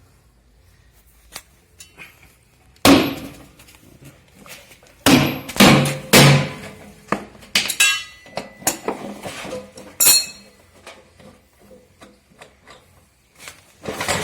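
Hammer blows on metal, as on a washing machine's seized drum shaft and bearings: a loud strike about 3 seconds in and three more close together around 5 to 6 seconds, then lighter knocks and clinks and one ringing metallic hit about 10 seconds in.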